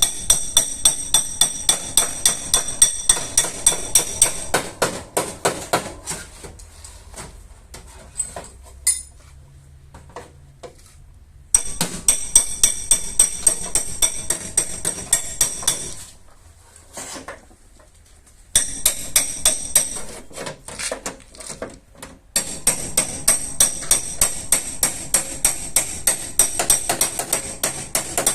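Rapid light hammer taps on a car's sheet-metal body panel, about five a second, each ringing high and metallic. This is dent-removal metal work. The tapping breaks off twice for a few seconds and then resumes.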